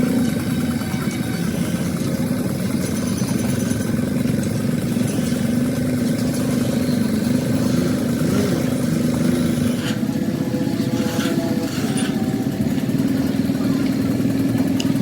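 An engine running steadily with an even drone, its tone shifting slightly about ten seconds in.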